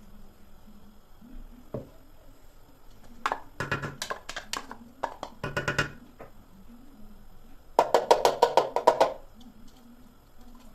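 Two bursts of rapid knocking, about eight sharp strikes a second; the second burst, near the end, is the loudest.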